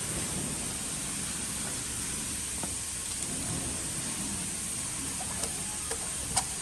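Steady background hiss with a few light clicks, the sharpest near the end.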